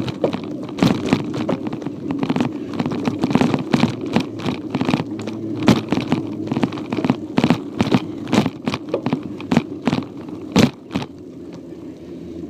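Irregular rattling and knocking of a child's bicycle rolling over a rough trail, heard through a phone clamped to its handlebars, over a steady rumble of tyres and wind. The knocks thin out and the sound gets quieter about eleven seconds in.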